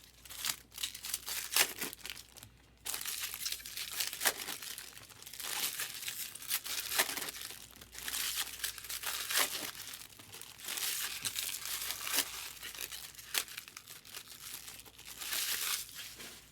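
Trading card packs being torn open, their foil wrappers crinkling in repeated bursts of rustling with a few sharp snaps.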